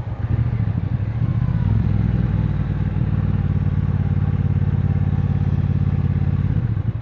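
Triumph Bonneville Bobber's 1200 cc parallel-twin engine under way on the road, pulling louder a moment in, then holding a steady note until it eases off near the end.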